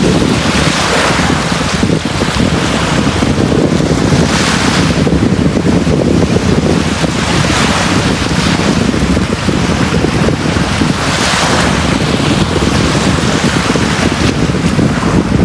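Sea waves breaking and washing up a beach, a fresh surge of hiss every three to four seconds over a steady low rumble.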